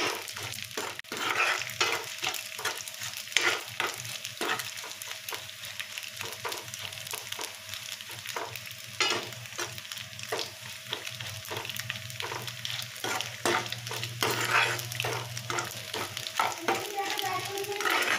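Dried fish strips frying and sizzling in hot oil in a metal karai, while a metal spatula stirs and scrapes against the pan in quick, irregular strokes. A faint steady hum runs underneath.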